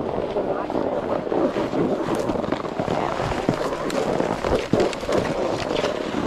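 Snowboard sliding and scraping over snow, with wind rushing across the microphone. A few sharp knocks come a little past halfway.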